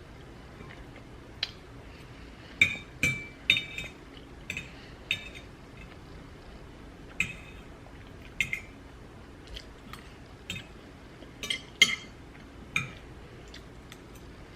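Cutlery and dishes clinking during a meal: about fifteen short, ringing clinks at irregular intervals, with a few louder ones in pairs.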